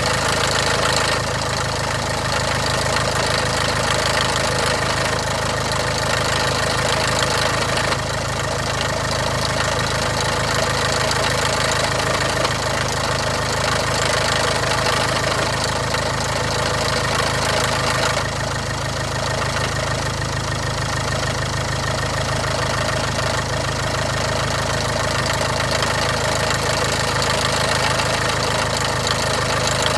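Land Rover Discovery Ingenium diesel engine idling steadily after a cold start, with a clattering rattle over the idle.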